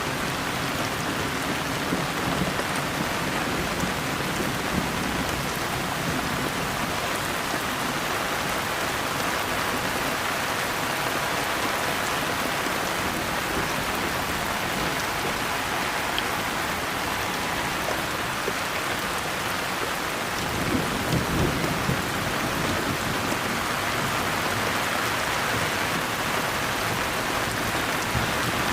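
Steady, dense rain falling. A brief low rumble swells up about two-thirds of the way through.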